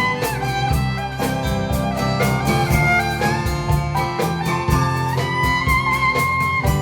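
Instrumental break in a folk song: a fiddle plays the melody in long held notes over strummed guitar.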